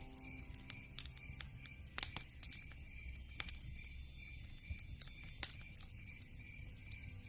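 Campfire crackling, with many small ticks and a few sharp pops about two, three and a half and five and a half seconds in, over a steady high pulsing chirp repeating several times a second.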